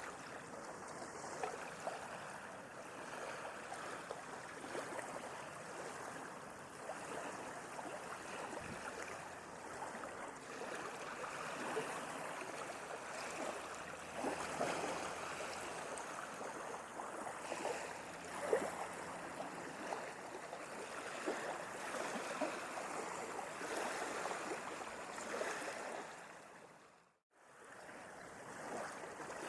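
Sea water washing and lapping in small waves, a steady wash of little splashes. About 26 s in it fades out to silence, then fades back in about a second later.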